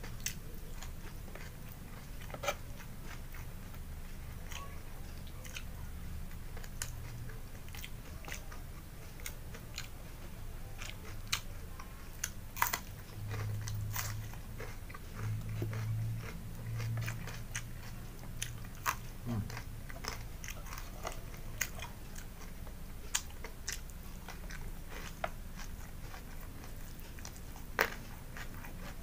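Close-miked chewing and biting, with crisp raw vegetables crunching between the teeth. Irregular sharp crunches and wet mouth clicks sound over a steady low hum.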